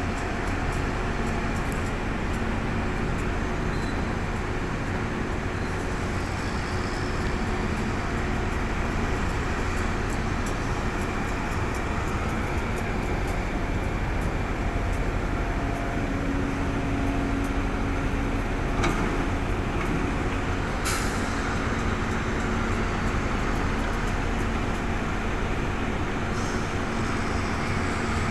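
Heavy diesel engine of a truck or earthmoving machine running steadily with a low hum. Two short sharp sounds come about two-thirds of the way through, the second a brief hiss.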